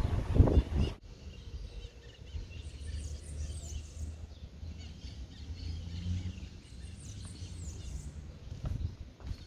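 Small birds chirping in short high calls over a low, steady rumble of outdoor street ambience. A loud rush of noise fills the first second and cuts off abruptly.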